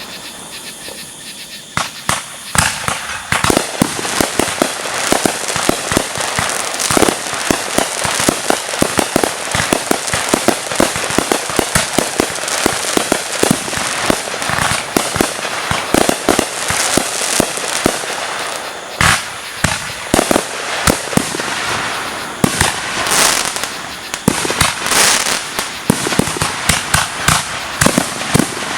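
Fireworks going off in a dense, rapid barrage of bangs and crackling, with a few louder booms along the way.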